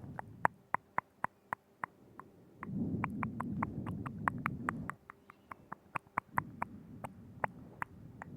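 Close-up ASMR mouth sounds into a binaural microphone: a steady run of wet tongue and lip clicks, about three to four a second. A low rumbling sound comes in twice under the clicks, each time for about two seconds.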